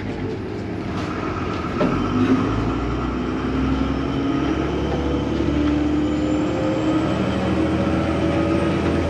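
Vaporetto water bus engine running with a steady hum, its pitch rising slowly as it gathers speed. A brief knock about two seconds in.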